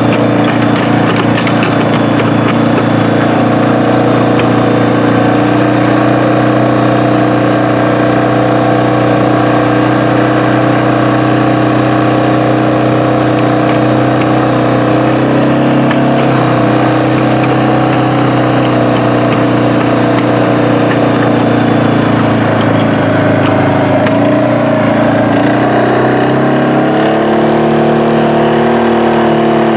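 An engine running steadily at idle, its pitch shifting and briefly rising about 25 seconds in.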